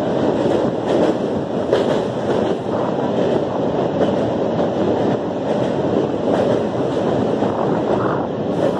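A train running over a steel truss bridge, a steady noise of wheels on the rails, with wind buffeting the microphone.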